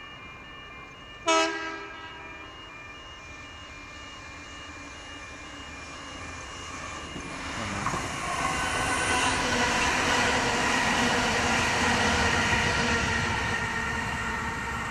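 A double-deck electric passenger train sounds one short, sharp horn blast while still far off. It then comes closer and runs past, with a rising rush of wheels on rail that is loudest as it goes by and then begins to fade.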